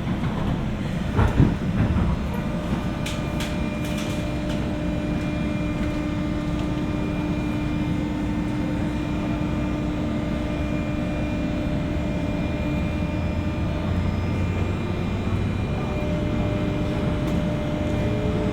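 Running noise heard inside a JR West 201 series electric multiple-unit motor car, picked up above its armature chopper controller: a steady rumble with faint steady tones over it. A few sharp knocks come about a second in.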